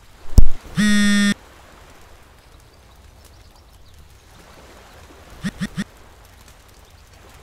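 A heavy thump, then a flat electronic buzz lasting about half a second from a cracked smartphone. About five seconds in, three quick short blips sound as a picture message arrives on its screen, over faint steady background noise.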